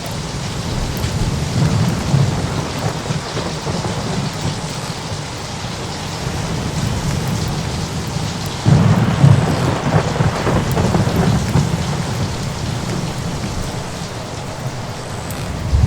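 Steady rain with thunder: a rumble swells about two seconds in, and a sudden, louder crack of thunder about nine seconds in rolls on for several seconds.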